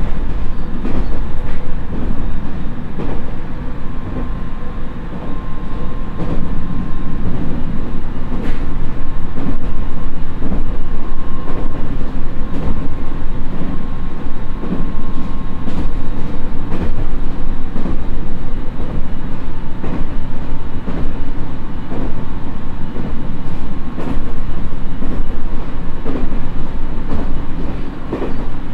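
Running noise inside a JR East 701-series electric motor car cruising at about 85 km/h: a heavy, steady rumble of wheels on rail, broken by irregular clacks over rail joints, with a faint steady whine underneath.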